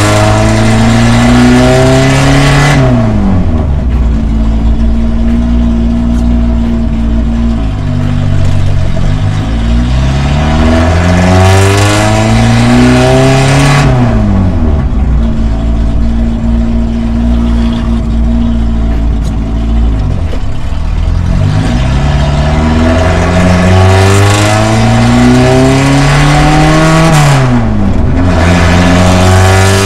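Toyota Starlet KP61's four-cylinder engine pulling through the gears, heard from inside the cabin. Its pitch climbs under acceleration and drops sharply at each upshift, about five times.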